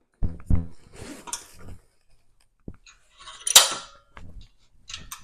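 Steel sheet-metal cleat being worked in a joggle bending tool: metal clanking and scraping, with two heavy thumps near the start and a sharp metallic clatter about three and a half seconds in.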